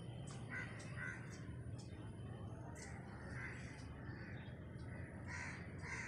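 Bird calls: a few short calls, several coming in pairs, over a steady low rumble.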